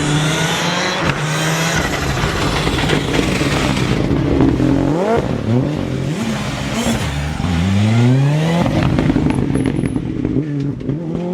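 Rally car engine revving hard and accelerating. Its pitch climbs and drops back several times as it changes gear.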